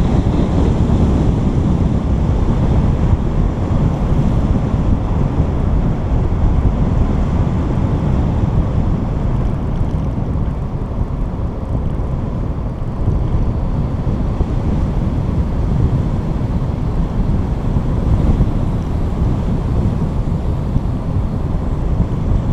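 Steady low rumble of wind buffeting a GoPro's microphone.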